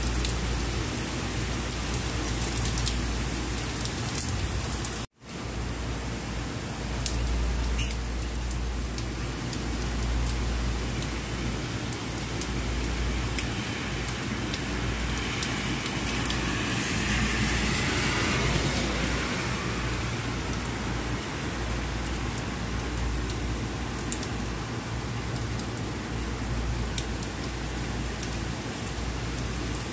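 Steady heavy rain falling on a city street, an even hiss. About halfway through, a wet swish swells and fades, like car tyres passing on the soaked road. The sound cuts out for an instant about five seconds in.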